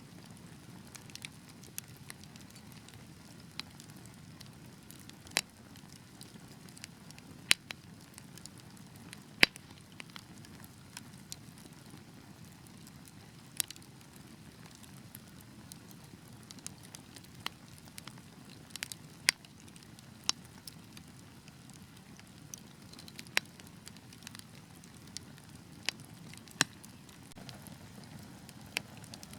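Wood log fire crackling, with irregular sharp pops, a few of them much louder, over a soft, steady low rumble of the burning.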